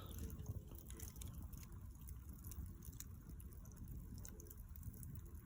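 Bonfire crackling faintly, with small irregular snaps and ticks.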